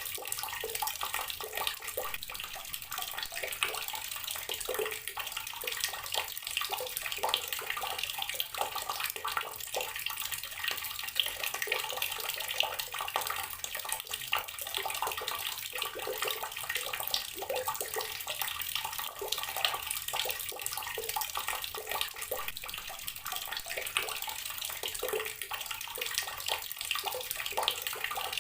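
Garden water tap running steadily, its stream splashing with many small, irregular splashes.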